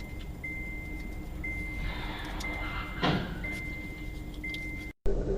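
Road noise inside a moving car, with a high electronic beep repeating about once a second. A brief louder rush comes about three seconds in, and the sound cuts off abruptly near the end.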